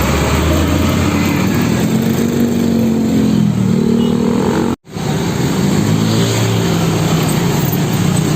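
Road traffic: vehicle engines running, their pitch rising and falling as they pass. Just before five seconds in, the sound drops out for an instant.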